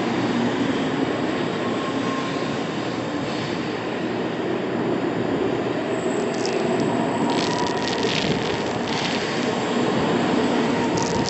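N700 series Shinkansen train running out of the platform under power: a loud, steady rushing of wheels and motors, with sharp high hissing and squealing streaks from about six to nine seconds in.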